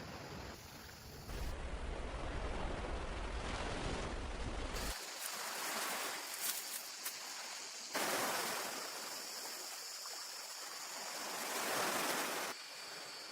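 Sea surf washing onto a beach, a rushing noise that swells twice in the second half. The sound changes abruptly a few times, and there is low wind rumble on the microphone in the first part.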